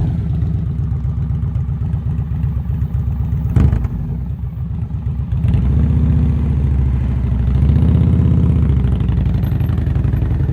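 Heavy cruiser motorcycle engine running at low speed during a tight U-turn, with throttle rising twice in the second half. A single sharp clack sounds about three and a half seconds in.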